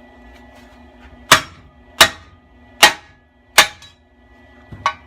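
Hammer blows on steel exhaust pipe: four loud, sharp strikes about three-quarters of a second apart, each ringing briefly, then a lighter double strike near the end.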